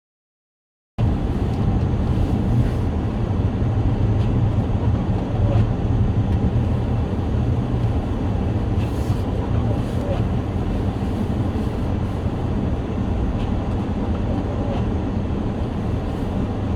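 Car driving on a snowy road: a steady low rumble of engine and tyre noise that starts abruptly about a second in.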